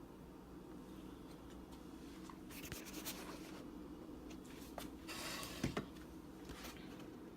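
Faint rubbing, scraping and light clicks of kitchen items being moved about on a counter, with a louder scrape about five seconds in, over a steady low hum.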